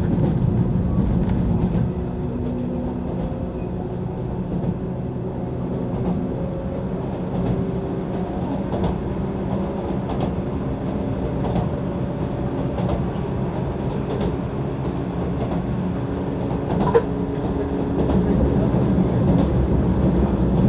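JR 185 series electric train running, heard from inside the car: a steady low rumble of wheels on rail with a hum of motor tones that shift slightly in pitch, faint clicks over rail joints, and one sharp click about 17 seconds in.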